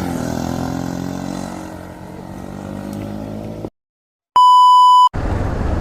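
Intro music with held notes fades down, then cuts to silence, and a loud steady electronic beep sounds for just under a second. Road and wind noise from the ride comes in right after the beep.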